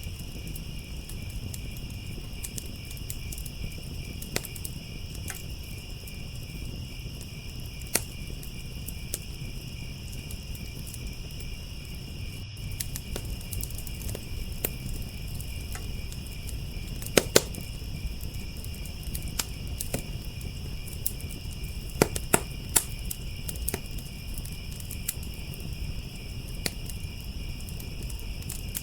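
Crickets chirping steadily over a wood fire crackling and popping, with a few sharper, louder pops a little past the middle and again about three quarters of the way through.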